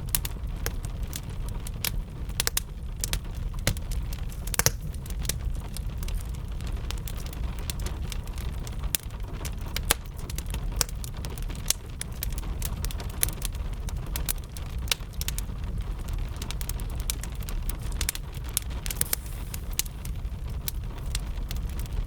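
Wood fire crackling with frequent sharp pops over a steady low rumble, mixed with gentle rain.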